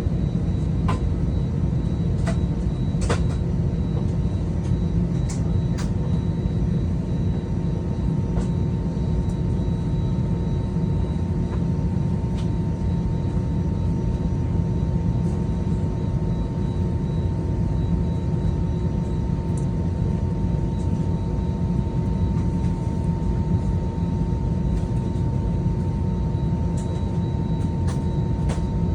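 Steady low rumble and engine hum inside the cabin of an Airbus A320-200 on the ground before takeoff, with a few faint steady tones over it and a few light clicks near the start.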